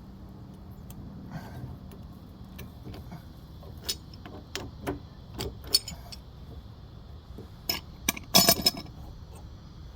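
Scattered metallic clinks and taps of a pipe wrench being handled and set onto the backflow preventer on an outdoor spigot, with a louder rattling cluster of clanks near the end.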